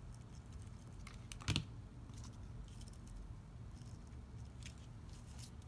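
Light scattered clicks and rustles of paper craft pieces being handled and placed on a card box, with one louder sharp tap about a second and a half in.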